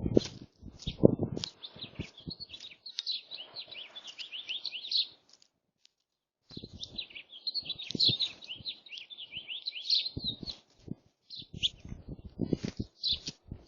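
Small birds chirping in two long runs of fast, closely spaced chirps, with a pause of about a second between them. Low knocks and thuds come near the start and again near the end.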